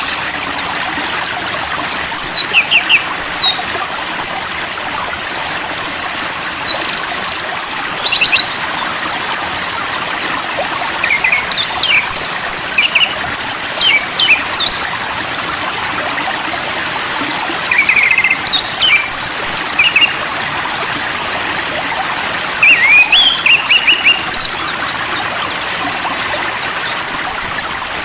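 A songbird singing in short bursts of quick, sweeping whistles and chirps every few seconds, over a steady trickle of running water.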